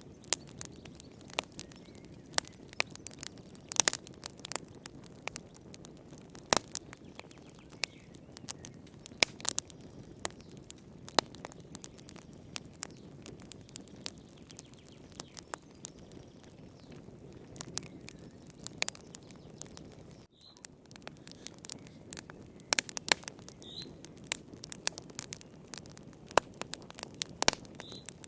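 Wood fire burning in a fireplace: a low steady rush of flame with many irregular sharp crackles and pops from the burning logs.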